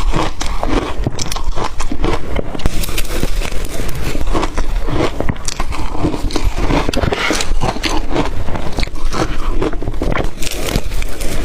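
Close-up crunching of blender-crushed ice being bitten and chewed: a dense, irregular run of sharp crackles with no let-up.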